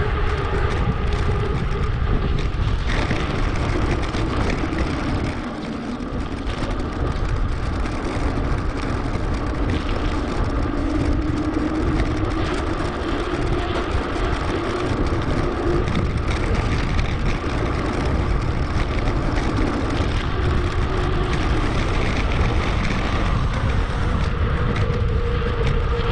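Steady wind rush on the microphone and tyre noise from a mountain bike rolling along a path, sped up to 2.5 times, with a brief dip in level about a fifth of the way in.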